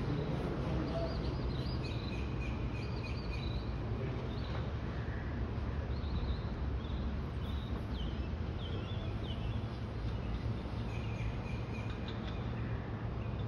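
Birds chirping in short, high calls, scattered throughout over a steady low rumble.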